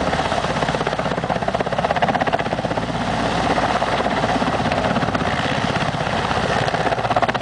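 Helicopter running close by, its main rotor giving a fast, steady chopping beat over the engine noise.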